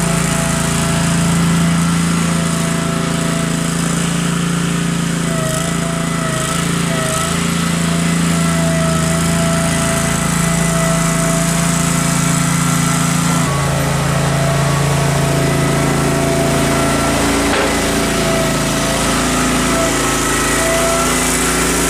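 Case 446 garden tractor engine running steadily under load while pushing snow with its front blade. The engine note shifts about two-thirds of the way through.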